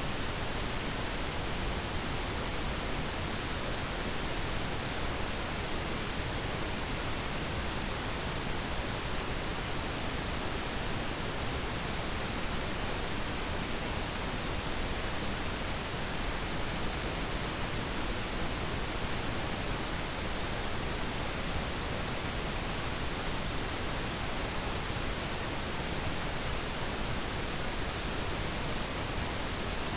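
Steady pink noise: an even, featureless hiss with no change or events.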